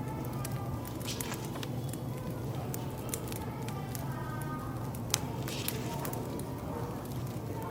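Wood fire crackling with scattered small pops and one sharper pop about five seconds in, over a low murmur of cafe chatter and a steady hum.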